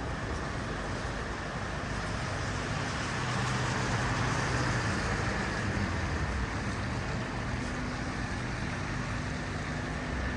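City street traffic noise: a steady rumble and hiss of road vehicles, growing louder about four seconds in.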